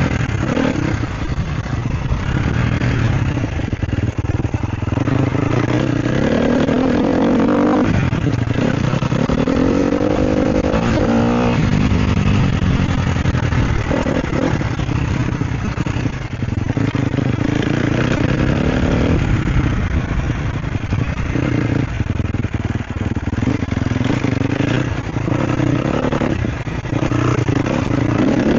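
Sherco SEF 250 single-cylinder four-stroke enduro bike engine being ridden off-road. The throttle is opened and closed again and again, so the pitch keeps rising and falling with each burst of acceleration and roll-off.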